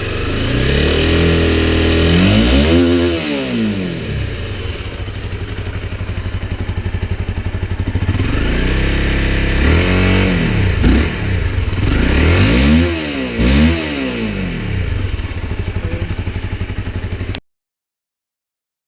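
Honda CBR250R's single-cylinder engine idling, with the throttle blipped several times so the revs rise and fall back, twice in quick succession near the middle. The sound cuts off suddenly near the end.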